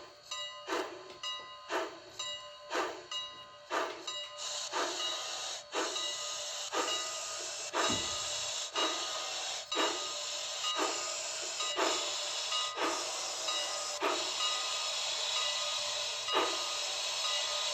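Steam locomotive sound: regular exhaust chuffs, about two a second at first and slowing to about one a second. A steady hiss of escaping steam joins in about four and a half seconds in.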